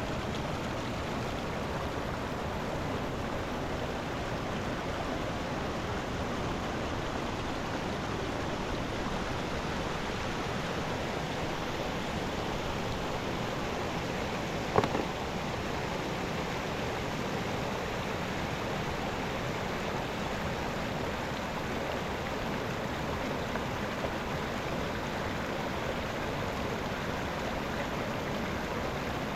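Mountain river running steadily, with one sharp knock about halfway through.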